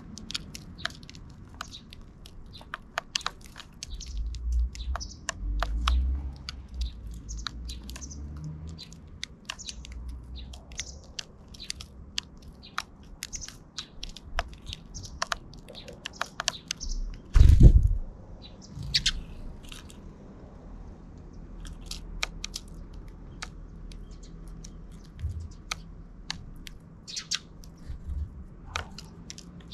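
Sparrows chirping while they peck and crack seeds, making many quick small ticks and crunches. A single loud dull thump comes about three-fifths of the way through.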